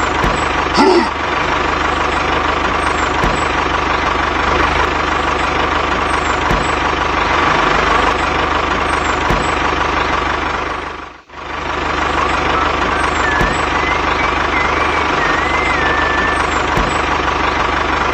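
Small electric motor of a miniature model running steadily with a continuous whine, briefly dropping out about 11 seconds in.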